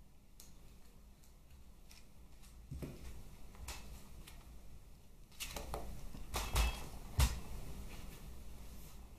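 Hand tools and small metal parts being handled during engine strip-down: scattered light clicks, then a cluster of clinks and knocks about halfway through, the two loudest a little over half a second apart.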